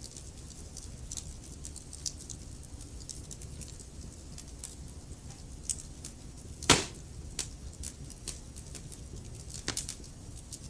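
Wood fire burning in a fireplace: logs crackling with irregular small pops over a low steady rumble, and one loud snap about two-thirds of the way through.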